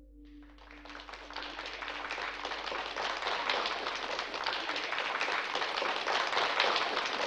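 Audience applause, starting just after the opening and swelling louder, with the held final note of the song fading out beneath it in the first two seconds.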